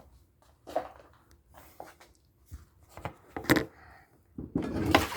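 Kitchen handling sounds: a series of separate knocks and clatters as dishes and containers are moved about. Near the end a steady rush begins, water starting to run from the tap.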